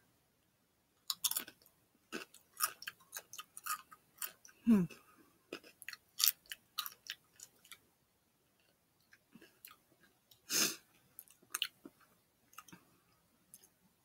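Close-up crunchy chewing of a salsa-flavoured Doritos tortilla chip. Rapid crisp crunches fill the first several seconds, then thin out to slower, softer chews. There is a short falling vocal sound about five seconds in and a brief rush of breath about ten seconds in.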